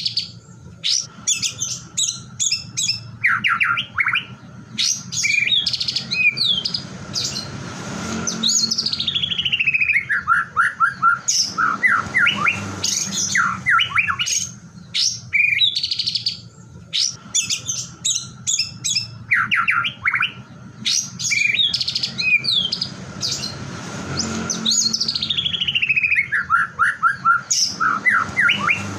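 White-rumped shama (murai batu) song: quick varied whistles and chirps, with a long falling trill twice. The whole phrase repeats about every 16 seconds, like a looped lure recording, over a faint steady hum.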